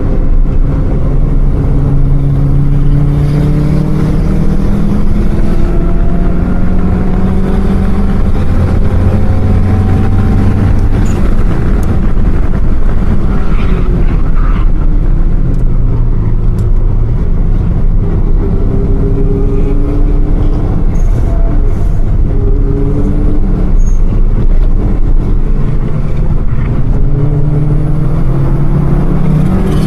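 Car engine running, its pitch rising and falling several times as it speeds up and slows, over a steady low rumble.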